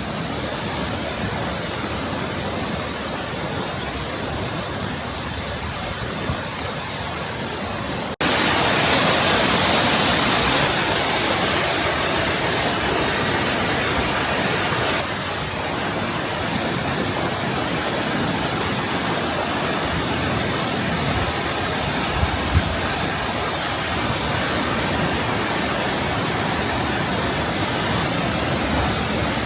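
Kegon Falls, a tall plunge waterfall, rushing steadily. The roar jumps suddenly louder and brighter about eight seconds in and drops back a little about fifteen seconds in.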